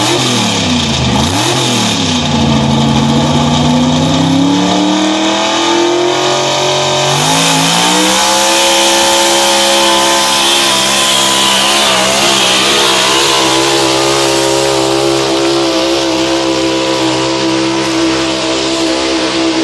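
1986 Chevy pull truck's engine making a run on the sled: a few quick throttle blips, then climbing in pitch under full throttle, jumping higher about seven seconds in and holding at high revs to the end.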